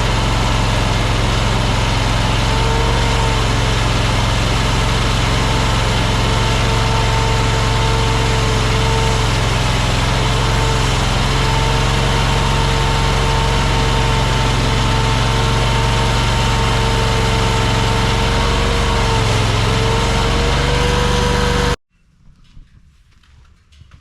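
Engine of an AGT LRT23 mini skid steer running steadily, with a high whine over it that wavers slightly in pitch. The sound cuts off abruptly near the end, leaving only faint sounds.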